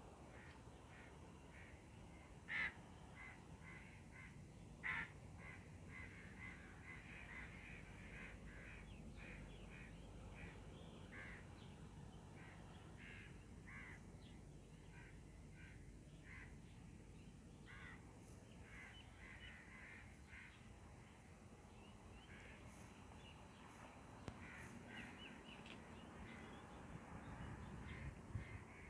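Birds calling faintly, many short calls repeated again and again, with two louder calls a few seconds in.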